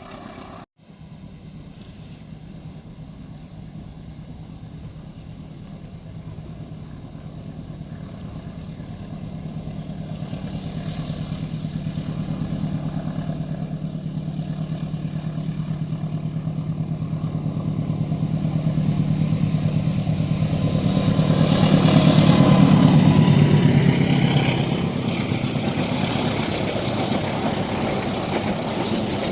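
Diesel locomotive approaching along the track. Its engine hum grows steadily louder, is loudest about 22 seconds in as it passes, then eases into the rumble of the train behind it.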